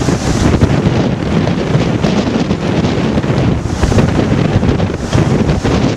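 Strong wind buffeting the microphone aboard a sailboat under way in rough water, with waves and water rushing along the hull. The wind rises in gusts near the start and again about four and five seconds in.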